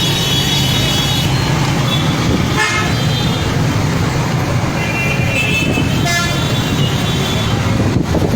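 A loud, steady rush of storm wind and street traffic, with car horns honking about three seconds in and again around five to six seconds in.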